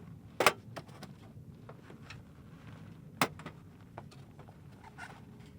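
Two sharp knocks, one about half a second in and one a little after three seconds in, over a faint low steady rumble.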